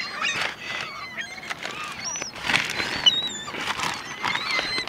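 A flock of seagulls crying over one another, many short, high, overlapping calls, as the birds beg for food being thrown to them.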